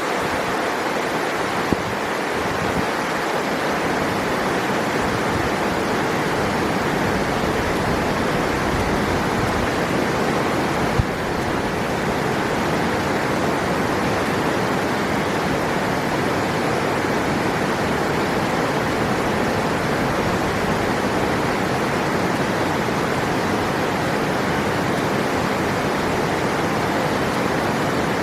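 River water rushing in a steady, unbroken wash.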